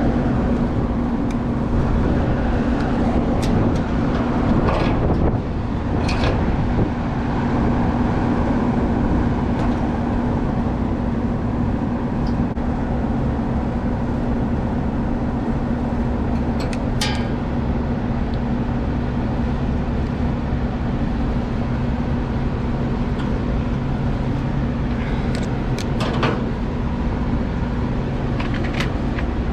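An air-conditioning unit with a belt-driven blower running, giving a steady hum with a constant low tone. A few short clicks and taps from hand work on the wiring sound over it.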